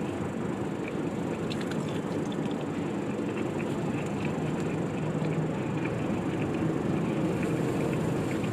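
A person chewing a bite of breaded chicken nugget, with faint small clicks over a steady background rumble.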